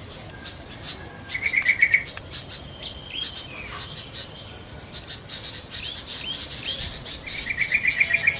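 Yellow-vented bulbuls (trucukan) calling, with two short bouts of fast, bubbly repeated notes, one about a second in and one near the end, over a background of many thin, high chirps.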